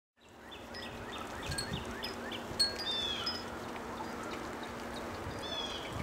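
Small birds chirping: a quick run of short, high chirps, then two whistled calls that slur downward a few seconds apart, over a steady outdoor background hiss with a faint low hum.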